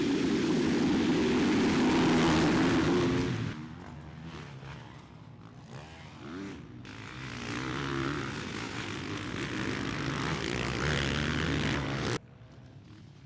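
Motocross bike engines running hard on the track, rising and falling in pitch as riders rev and shift. Loud for the first few seconds, then fainter and building again, before the sound cuts off abruptly near the end.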